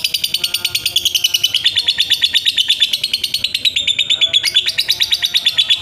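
Lovebird's ngekek: a long, fast chattering trill of rapidly repeated high chirps that runs on without a break.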